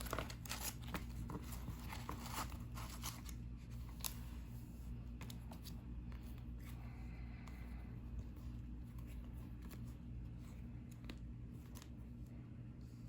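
Cardboard trading cards being handled and sorted: soft slides, taps and small clicks of card against card, busiest in the first few seconds and then more scattered, over a faint steady low electrical hum.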